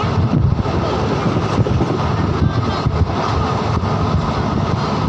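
Moving train running steadily: a loud, continuous rumble with a few faint knocks now and then.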